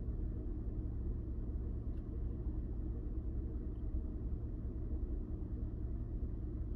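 2000 Honda Odyssey's 3.5-litre V6 engine idling with a steady low rumble; the idle is rough, a fault that the uploader connects with the oxygen sensors.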